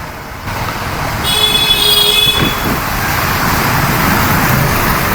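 Road traffic noise heard while riding, with a vehicle horn honking once for about a second, starting about a second in. Wind and road noise run steadily around it.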